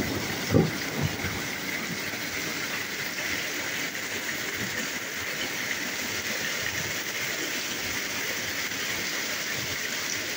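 Heavy rain pouring steadily during a thunderstorm, with a brief low thump about half a second in.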